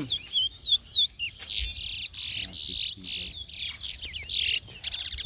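Caged towa-towa seed-finch singing in a song race: quick runs of short, sweeping whistled notes that build into dense, chattering song phrases.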